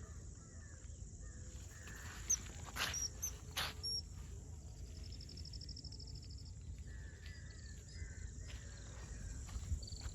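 Birds calling in open countryside: short high chirps, then a rapid trill about five seconds in, over a steady low rumble. A few sharp clicks come between about two and four seconds in.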